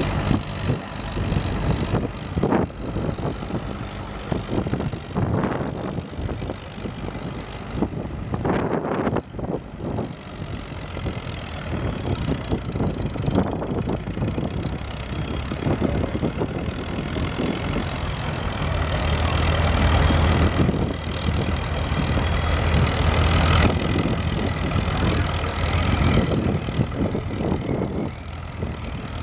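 Antique farm tractor engine running steadily, growing louder with a strong low hum about two-thirds of the way through, then easing near the end.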